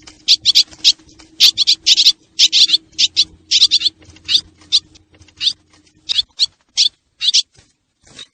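Swallows chirping: a dense run of short, sharp, high calls, several a second, from a lure recording meant to attract the birds. A faint steady hum underneath stops about six seconds in.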